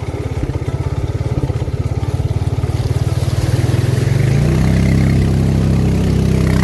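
A vehicle engine running with a low, fast throb that grows louder and, about four and a half seconds in, turns into a smoother, steady drone.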